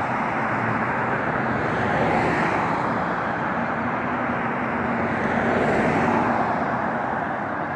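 Road traffic passing: tyre and engine noise from cars, steady with a couple of gentle swells as vehicles go by.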